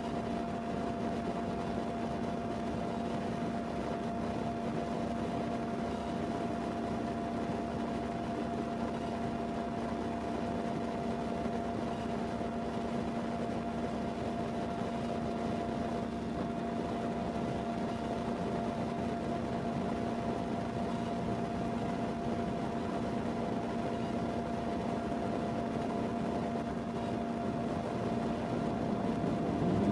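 Steady machine hum with two constant tones under a low noise, unchanging, growing slightly louder near the end.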